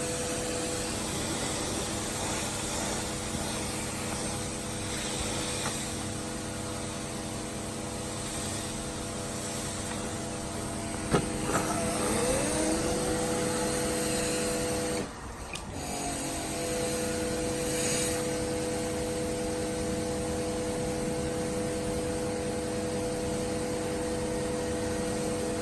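Electric motor of an XTM MX Pro 1300 W 48 V kids' electric dirt bike whining under way over a steady hiss. Its whine rises in pitch as the bike accelerates about halfway through. It cuts out briefly a few seconds later, then holds steady again.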